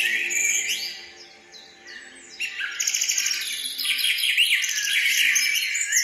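Small birds chirping and twittering in quick, overlapping high calls, with a short lull between about one and two seconds in; soft music runs faintly underneath.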